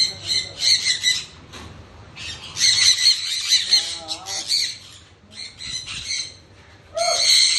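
Sun conures squawking: shrill, harsh screeches in rapid bursts with short pauses between them.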